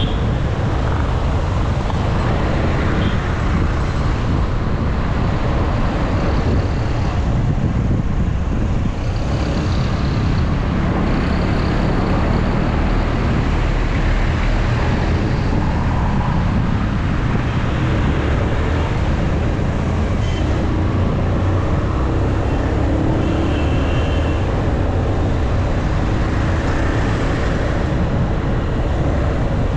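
Motorcycle on the move: a steady rush of wind buffeting the action-camera microphone, with engine and road noise underneath.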